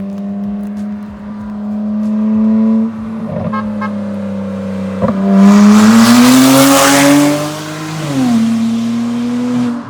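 BMW 335i's N54 twin-turbo straight-six, straight-piped from the turbos back with only catless downpipes, running raspy and very loud as the car approaches and accelerates hard past. The engine note climbs and is loudest about five to eight seconds in, then the pitch drops suddenly near eight seconds in.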